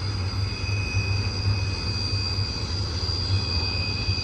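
Freight cars of a BNSF intermodal train rolling past on a curve: a steady low rumble with thin, steady high-pitched tones over it.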